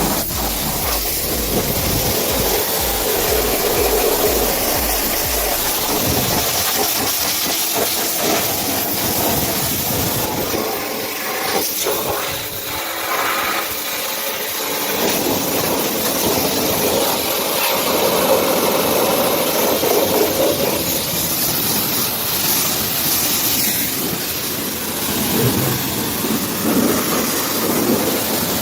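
High-pressure washer spray hissing steadily as water is blasted onto a truck, with a low pulsing rumble from the washer's pump for the first few seconds.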